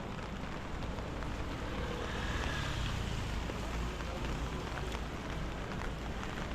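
Steady rain on a wet street: an even hiss with scattered light ticks, swelling slightly about two to three seconds in.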